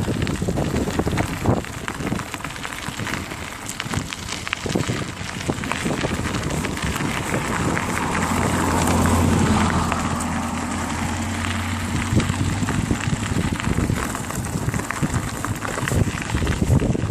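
Bicycle being ridden, with wind buffeting the microphone and frequent small rattles and clicks from the bike. A low hum swells about eight seconds in and fades away about four seconds later.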